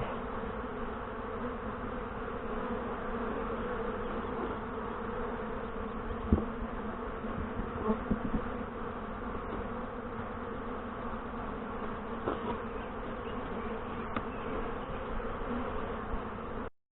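A colony of Saskatraz honey bees buzzing steadily around an open hive, with a few light knocks. The sound cuts off abruptly near the end.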